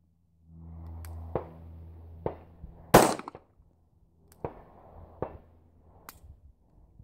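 A single .380 pistol shot from a Glock 42 about three seconds in, with several fainter sharp clicks and knocks before and after it. The shot comes just before the shooter says he jerked the trigger.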